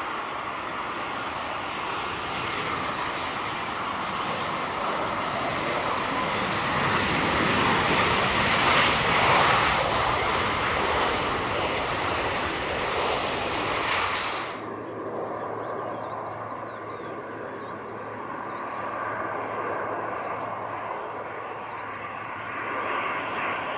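Jet airliner passing, its engine roar swelling to a peak about nine seconds in, then cut off abruptly about halfway through. After the cut there is a steady high-pitched buzz with a few faint chirps.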